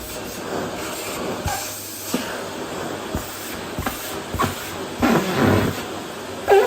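Vacuum cleaner running steadily with a hissing rush of suction over a wooden floor, broken by several short knocks and bumps, the loudest one near the end.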